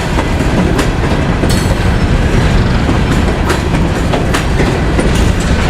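Empty coal hopper cars of a freight train rolling past close by, a steady rumble with wheels clacking over rail joints.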